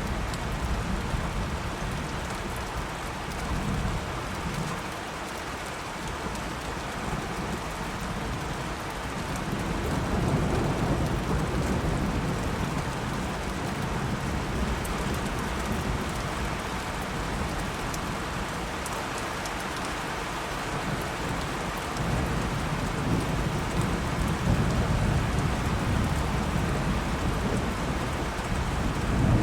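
Steady rain falling, with low rolling thunder rumbles that swell and fade, strongest at the start, around a third of the way in, and again in the last part.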